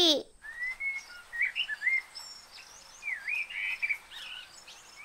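Small birds chirping and whistling in short phrases that glide up and down, several birds overlapping: a dawn-chorus birdsong effect that marks the break of day.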